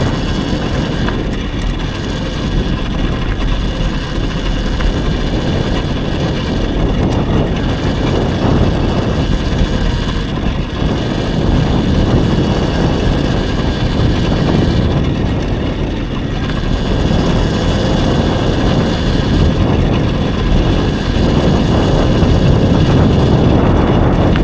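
Riding noise from an electric dirt bike: a loud, steady rush and rumble with thin high tones running through it, swelling a little about halfway and again near the end.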